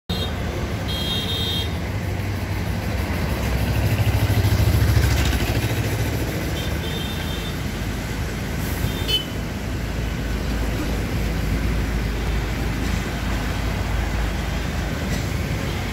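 A vehicle engine running with a steady low rumble that swells about four to five seconds in, with a few brief high-pitched tones over it.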